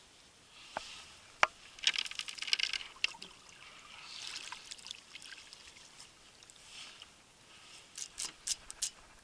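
Water trickling and splashing around a kayak, with scattered sharp clicks and knocks and a quick run of clicks near the end.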